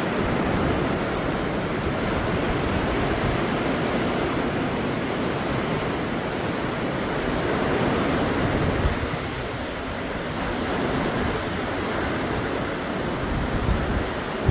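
Hurricane Beryl's wind and the storm-driven sea: a loud, steady rushing noise that eases slightly about nine seconds in.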